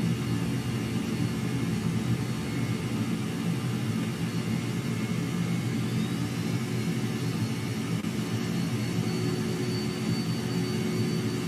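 Jet aircraft engine running steadily, a dense low rumble under a faint high whine that rises slightly near the end.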